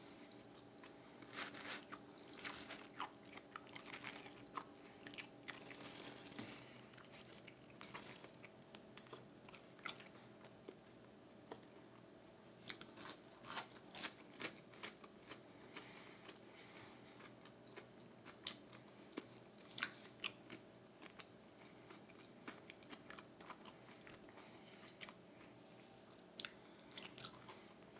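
A person chewing fried, breaded food (tater tots and stuffed chicken balls) close to the microphone: faint, irregular wet clicks and smacks of the mouth and teeth, some clustered in quick runs.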